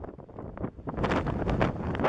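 Strong wind buffeting the microphone in gusts, easing in the first second and then growing louder from about a second in.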